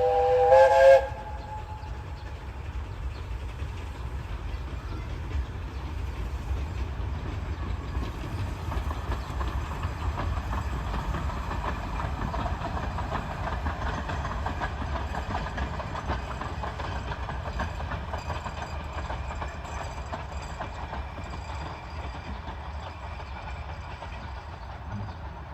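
Narrow-gauge steam locomotive whistle sounding and cutting off about a second in, then the train running with a steady low rumble.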